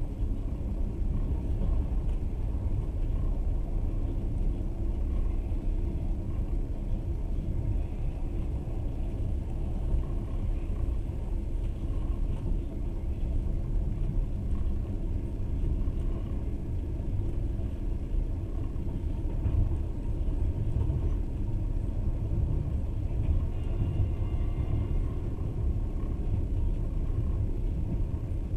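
Passenger train moving steadily: a continuous low rumble of the wheels running on the rails.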